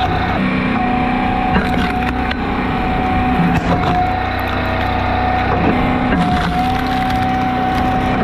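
A log splitter working: an engine runs steadily with a high steady whine, while firewood rounds crack and split apart several times. The whine dips briefly a few times.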